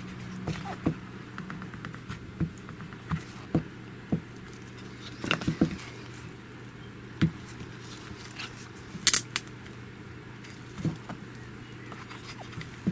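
Irregular small clicks and taps from hands handling a phone and pressing at its screen protector, with a sharp click about nine seconds in, over a steady low hum.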